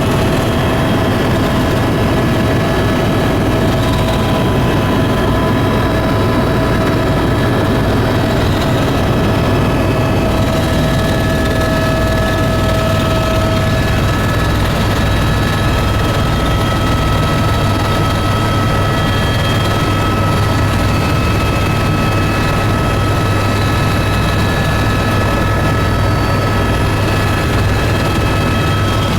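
A tour aircraft's engines and propellers droning steadily: a loud, even low hum with several steady whining tones above it.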